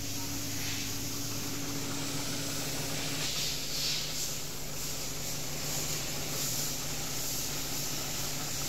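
Car petrol engine idling steadily with a hiss, running smoothly now that the knock-sensor fault that made it knock, misfire and shake has been dealt with.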